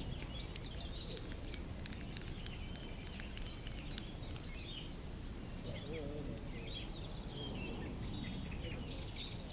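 Small birds singing and chirping over a steady low rumble.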